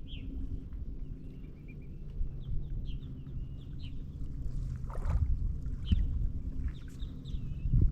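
A boat motor running steadily as a low hum, with birds chirping short calls again and again over it.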